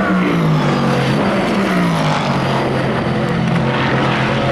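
Endurance racing car engines running at speed, their pitch falling over the first two seconds as they pass, then settling into a steady engine note.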